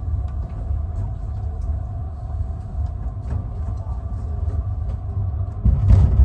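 Passenger train's steady low rumble with a few faint ticks, growing louder about five and a half seconds in, with a short hiss near the end.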